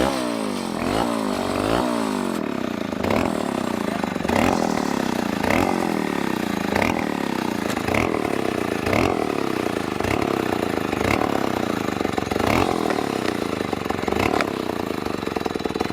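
Two-stroke chainsaw engine revved up and let fall back about once a second, over and over, each time with a sharp rise and a slower drop in pitch. Near the end it drops toward a fast, even idle.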